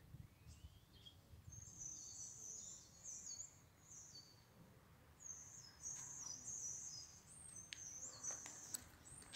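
Small birds twittering faintly in quick, high chirps, starting about a second and a half in, with a few faint clicks near the end.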